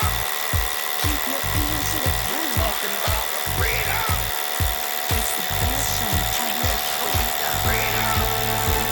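Hammer drill running steadily as it bores an anchor hole into a concrete ceiling, over background music with a steady beat.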